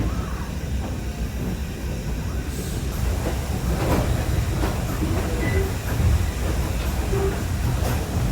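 Passenger train rolling on the track, a steady low rumble with clanks and rattles that grow busier about two and a half seconds in.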